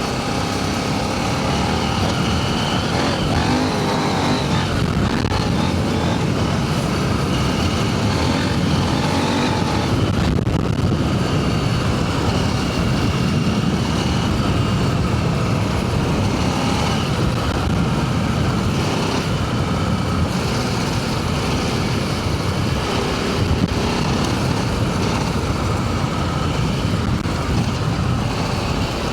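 Adventure motorcycle being ridden, its engine running with revs rising and falling over a steady rush of wind noise.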